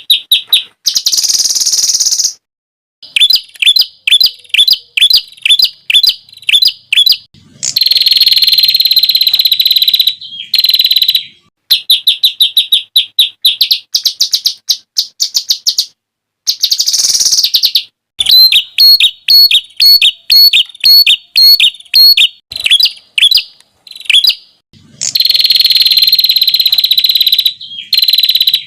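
Songbird song for bird training: loud series of sharp repeated whistled notes, about three or four a second, alternating with dense buzzy trills lasting a second or two, with short breaks between phrases. These are the rapid-fire 'tembakan' phrases valued in songbird contests.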